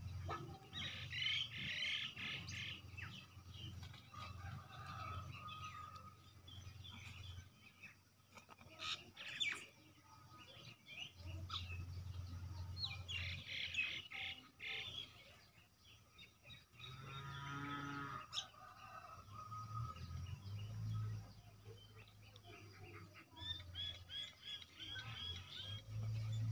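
Faint birds chirping in short, repeated bursts of high notes, with a low hum coming and going underneath.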